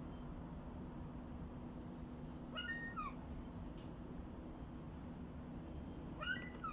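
Gulls calling: two short groups of high, mewing cries that rise then fall in pitch, one about two and a half seconds in and one near the end, over a low steady hum.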